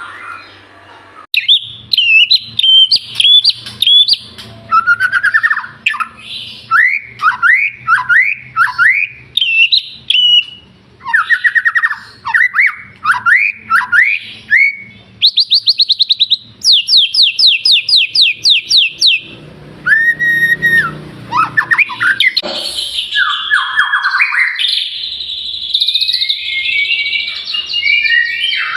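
White-rumped shama (murai batu) singing a loud, varied song of clear whistled notes, quick up-and-down glides and fast trills. The song starts about a second in.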